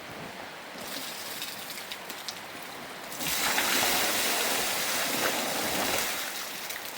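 Rain falling steadily, the hiss growing louder about a second in, then much louder for about three seconds from a little after the three-second mark before easing back.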